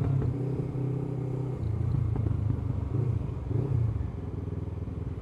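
Honda CBF500's parallel-twin engine running steadily, its note swelling slightly a couple of times. The bike now runs and charges normally after its electrical faults were fixed.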